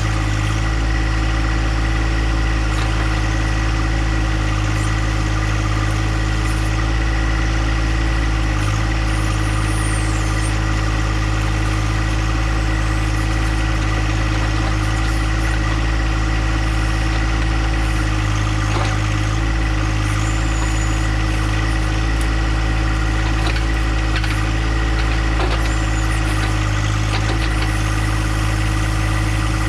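Small John Deere compact tractor's engine running steadily while pushing brush, with a few faint knocks in the second half.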